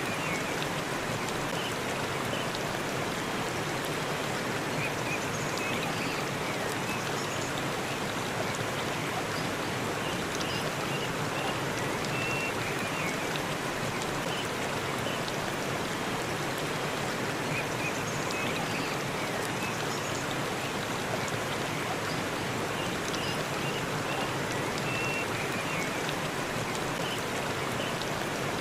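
Waterfall in a forest, a steady, even rush of falling water, with short high chirps scattered over it.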